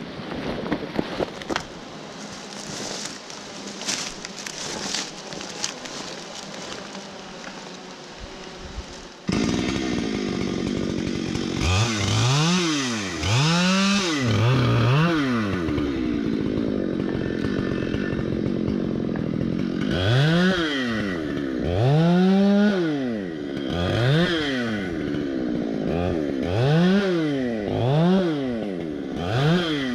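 Scattered clicks and knocks, then about nine seconds in a chainsaw starts cutting loudly, ripping a log lengthwise. Its engine pitch rises and falls over and over as the saw revs and loads in the cut.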